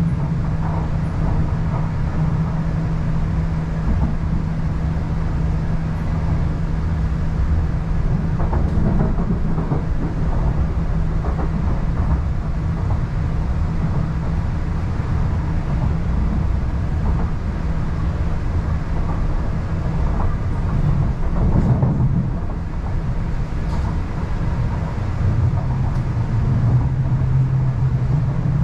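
MTR East Rail Line R-Train electric multiple unit running on the line, heard from on board: a continuous rumble with a steady low hum. The hum breaks off about two-thirds of the way through and returns at a slightly lower pitch near the end.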